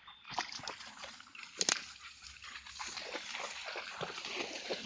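Water sloshing and splashing from wading through a shallow stream, an irregular run of splashes, with one sharp knock about a second and a half in.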